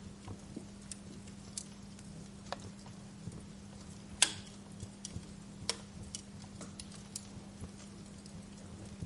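Wood fire crackling in a fireplace: scattered, irregular pops and snaps, the loudest a sharp pop about four seconds in, over a steady low hum.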